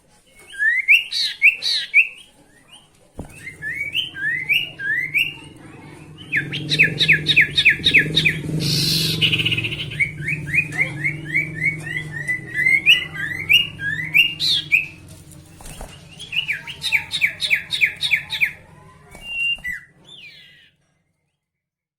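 Sirtu songbird singing: phrases of quick upslurred whistled notes, broken by fast rattling runs of evenly spaced notes, roughly six a second, about a third of the way in and again near the end. A low steady hum runs under the song for much of it.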